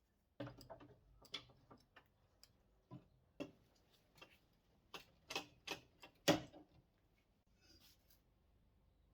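Irregular light clicks and knocks, a dozen or so over several seconds with the loudest about six seconds in, as tools and parts are handled at a workbench.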